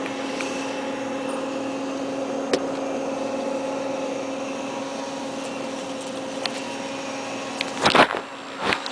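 Sandwich toaster oven running with a steady hum and a low tone. Near the end the hum stops and a couple of sharp clicks follow.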